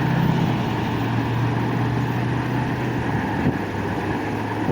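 A steady low engine hum over a constant rumble.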